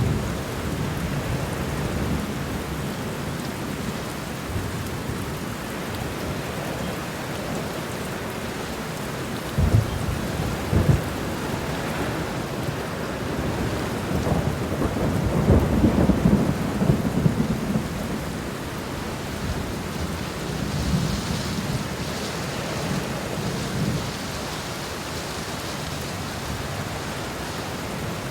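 Steady rain falling, with two sharp low thuds about ten seconds in and a longer low rumble through the middle.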